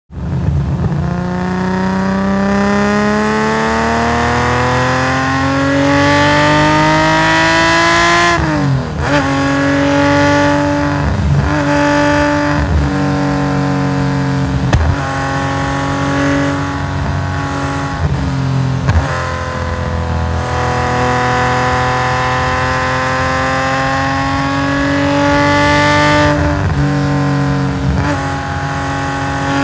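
Fully tuned Nissan S20 2.0-litre twin-cam straight-six in a racing Skyline GT-R, its exhaust rising steadily in pitch under full throttle for about eight seconds before a sharp drop at a gear change. A stretch of short lifts and shifts follows, then another long climb in revs and a second sharp drop near the end.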